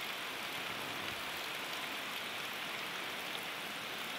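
Heavy rain falling steadily, a continuous even hiss of rain on surfaces during Hurricane Sandy.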